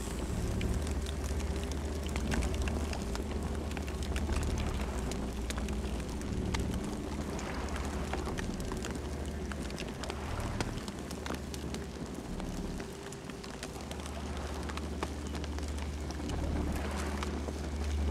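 Campfire burning, with many irregular crackles and pops over a steady low rumble.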